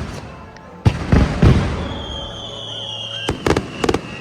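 Aerial fireworks bursting: three loud booms in quick succession about a second in, then clusters of sharp crackling reports near the end. A long high whistle glides slowly down in pitch between them.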